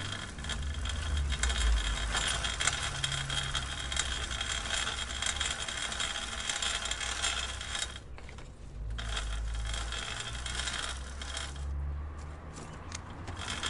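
Bicycle chain and drivetrain clicking and rattling as the bike is ridden: a dense run of fine clicks over a low rumble. The clicking drops away briefly about eight seconds in and thins to scattered clicks near the end.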